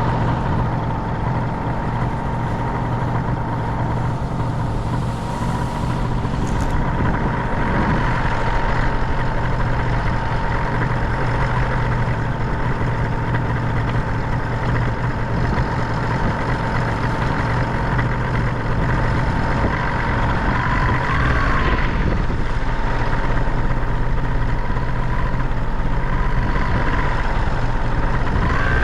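Paramotor engine and propeller running steadily at a constant note, with a brief small rise in pitch about two-thirds of the way in, over a rushing wind noise.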